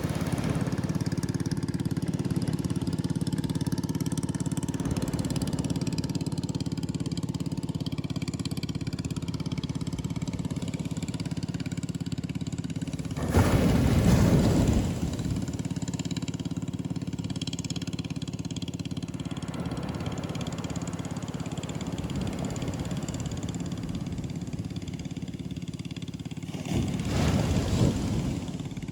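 Ocean surf breaking on a beach: a steady low roar, with two louder waves crashing, one about halfway through and one near the end.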